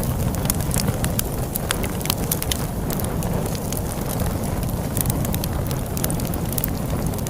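Log fire crackling with frequent sharp snaps and pops over a steady low rush of storm wind.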